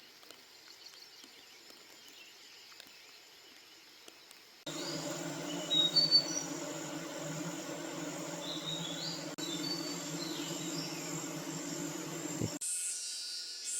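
Forest ambience in edited cuts: a faint stretch, then a steady low hum with short, high bird chirps scattered through it, then a high insect buzz beginning near the end.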